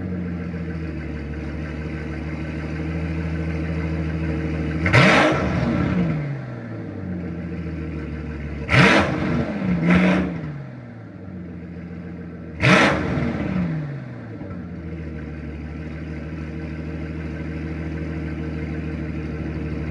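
2006 Mercedes-Benz SL65 AMG's twin-turbo V12 idling on a cold engine, blipped four times: one rev, then a quick pair, then one more, each rising sharply and dropping back to a steady idle.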